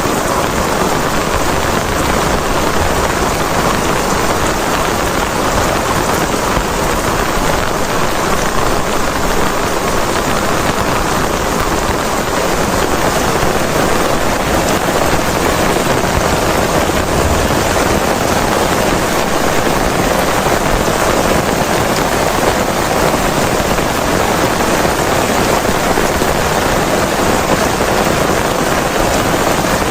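Heavy rain falling steadily, with an even, unbroken hiss of drops hitting surfaces.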